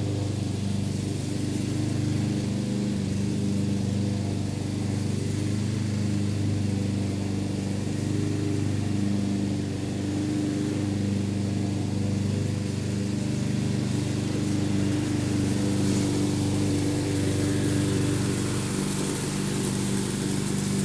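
Gasoline lawn mower engine running steadily at an even speed.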